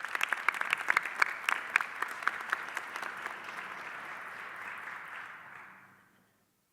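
Audience applauding after an award recipient is announced, with sharp individual claps early on that thin out and fade away around six seconds in.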